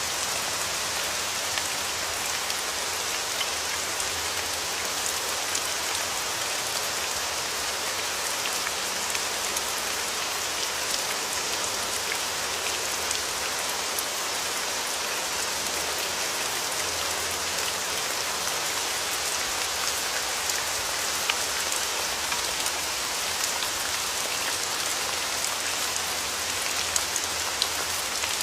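Steady rain falling, a dense even hiss with many small drop ticks pattering on a surface.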